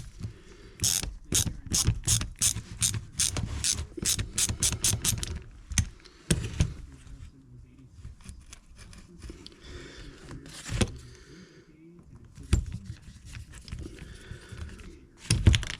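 Hand screwdriver ratcheting in a quick run of sharp clicks, then a few single clicks and handling noise, as it turns out the small screw holding a carburetor's choke butterfly.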